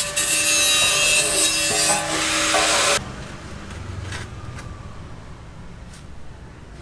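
Loud grating noise of a tool cutting or grinding material, with a shifting hum under it, that stops abruptly about three seconds in; afterwards only quiet background with a few faint clicks.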